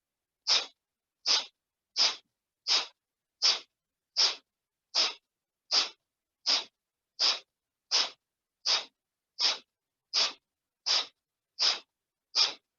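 Kapalbhati (skull-shining) breathing: a steady train of short, forceful exhales snapped out through the nose by pumping the diaphragm, about four every three seconds, each inhale passive and silent between them.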